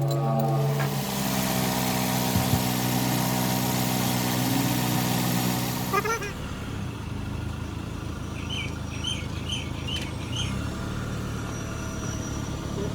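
Freshly rebuilt Toyota 1TR engine idling steadily just after start-up. For the first six seconds a hiss runs over it and then stops abruptly; a quick run of five short chirps comes a few seconds later.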